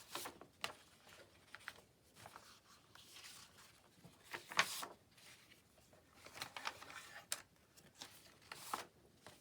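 Paper pages being crinkled and handled in scattered short rustles, the loudest about halfway through, as their edges are crunched up to give them a worn, distressed look.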